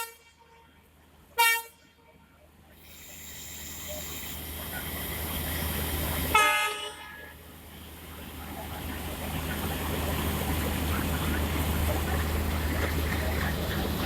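Indian Railways locomotive horn giving two short toots, about a second and a half in and about six seconds in. Under them runs a steady low locomotive rumble that grows louder over several seconds.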